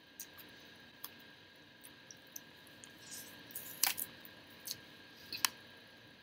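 A person chewing food with the mouth closed close to the microphone: soft wet clicks and lip smacks, with two sharper smacks, one a little past the middle and one near the end.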